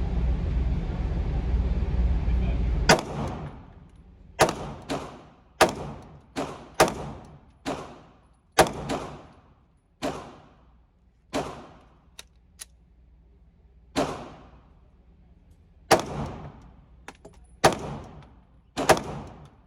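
Glock 19 9mm pistol fired about fourteen times in slow, deliberate single shots, each a sharp report with a ringing tail, spaced one to two seconds apart. A steady low rumble runs until the first shot, about three seconds in, and a few faint short cracks fall between the later shots.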